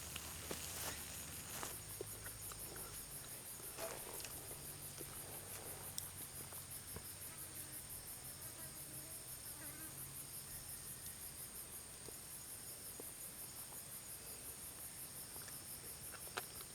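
Insects chirping in a steady chorus: a high-pitched, evenly pulsing trill that never stops, with a few faint clicks and knocks over it.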